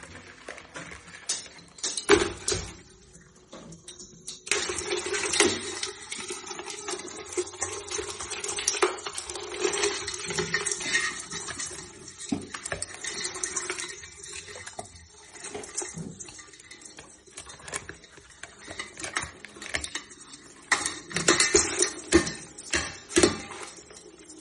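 Clattering and scraping against a metal pot holding live river crabs, with many irregular sharp clinks and a few louder knocks.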